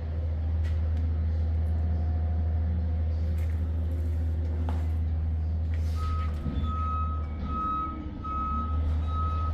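An engine runs steadily with a deep, even rumble. About six seconds in, a high electronic beep starts repeating, a little more than once a second.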